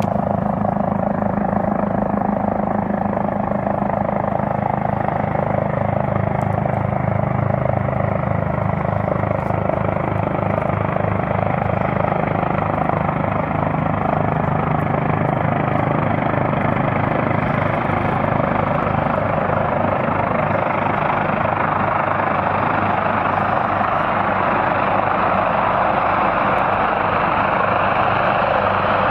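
Air ambulance helicopter in flight: a steady rush of rotor and turbine noise over a rapid, even low beat from the rotor blades, growing slightly fuller toward the end.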